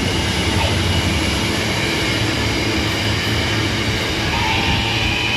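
Loaded container freight train rolling past close by: a steady, loud rumble of wagon wheels on the rails, with a thin high-pitched whine that grows stronger near the end.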